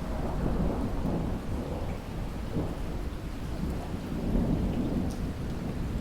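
Thunder rumbling low over steady rain: the rumble swells in at the start and rolls on, rising and falling, beneath the even hiss of the downpour.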